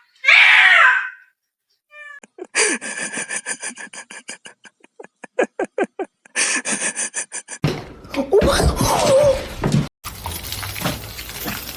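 A cat meows once at the start. It is followed by a run of quick clicks, about five a second, lasting several seconds, then a noisier stretch with a wavering cry.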